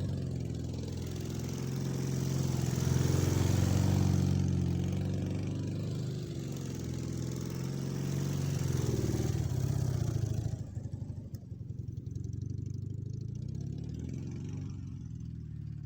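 Dnepr MT-10-36 motorcycle's flat-twin engine running hard, its revs rising and falling. About ten seconds in it drops back to a quieter, uneven idle.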